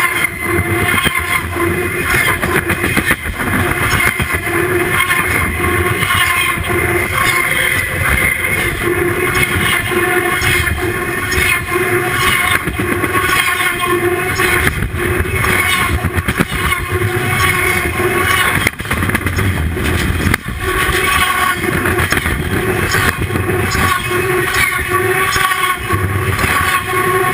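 Freight train cars rolling directly over a camera placed between the rails: a loud, steady rumble of steel wheels on the rails with ringing, whining tones on top and a few sharp knocks.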